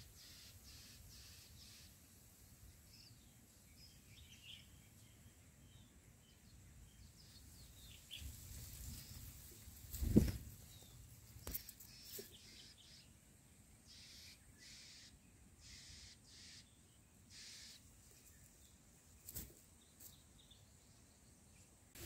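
Small birds giving short, high chirps on and off. A single thump about halfway through is the loudest sound, with a few faint clicks later.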